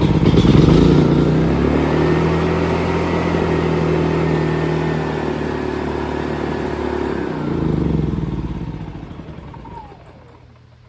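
AIVolt AS8000 inverter generator's engine running steadily, surging briefly about eight seconds in, then winding down and stalling about ten seconds in: the unexplained shut-off fault the owner is chasing.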